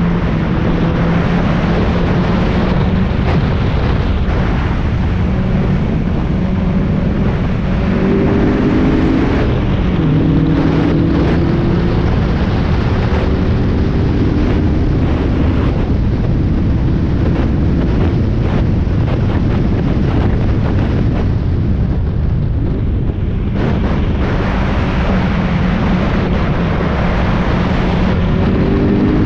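Spec Miata's four-cylinder engine driven hard at race pace, heard from inside the car over heavy wind and road rumble. The engine pitch climbs and steps several times as the car changes gear, with a short lift off the throttle about three-quarters of the way through before it pulls again.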